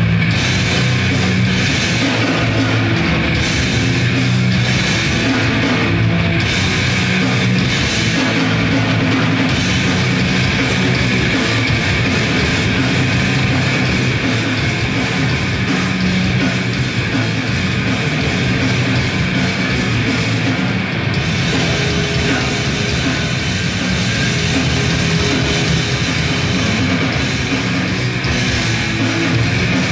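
Grindcore band playing live: loud, continuous distorted guitar, bass and fast drumming.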